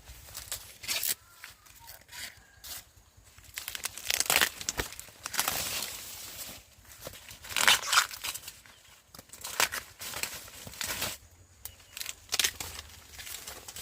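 Dry corn leaves and husks rustling and tearing in irregular bursts as corn is handled during harvest.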